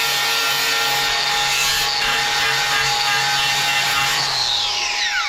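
Angle grinder fitted with a wire brush wheel running against greasy steel, a steady harsh scrubbing. About four seconds in it is switched off and winds down in a falling whine.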